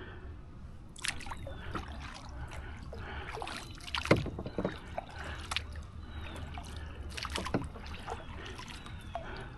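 Canoe paddling: the paddle dips and splashes in the water with irregular strokes, and water drips and trickles off the blade. There is one louder knock or splash about four seconds in.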